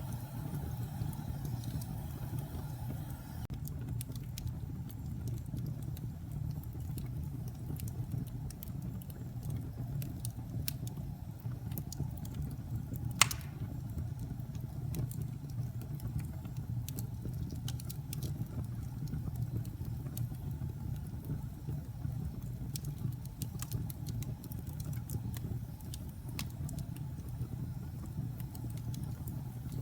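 Wood fire burning in a fireplace: a steady low rumble of the flames with scattered small crackles, and one loud pop about halfway through.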